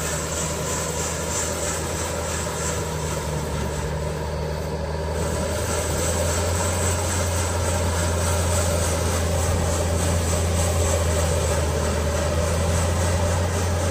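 Skid steer engine running steadily while driving a hydraulic rotary sweeper broom; the engine grows a little louder about six seconds in.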